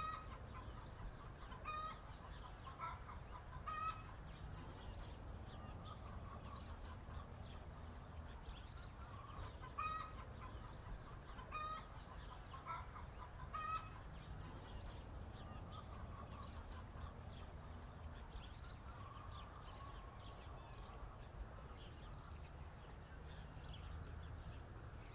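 Birds calling: short, high calls repeated at irregular intervals, most often in the first half, over a steady low outdoor hum.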